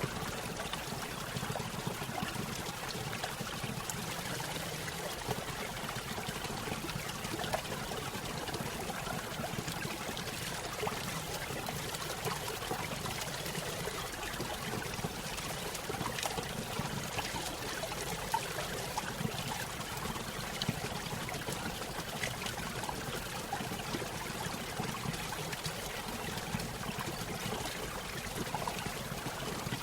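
A small stream spilling over a little waterfall: steady trickling and splashing water with many small drops and gurgles.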